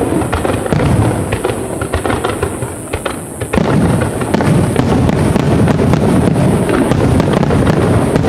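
Aerial fireworks bursting in a dense, rapid barrage, overlapping booms and crackles with a deep rumble, thickening after about three and a half seconds.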